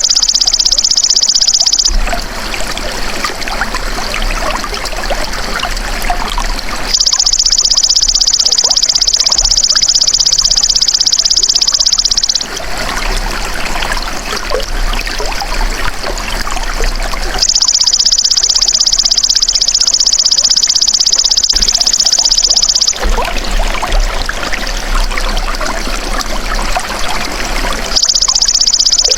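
Belalang emas insect calling: a loud, steady high-pitched buzz in stretches of about five seconds. Each stretch alternates with about five seconds of trickling running water. The buzz starts about 7, 17½ and 28 seconds in; the water takes over about 2, 12½ and 23 seconds in.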